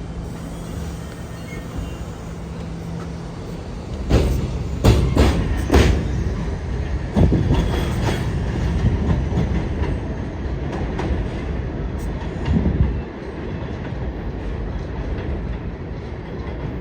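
New York City subway train running through a station, wheels clattering over rail joints: a steady rumble with a low hum that stops about three and a half seconds in, then a run of sharp clanks about four seconds in and another near the end.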